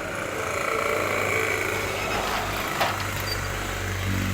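A motor running steadily with a low hum, and a single sharp knock a little before three seconds in.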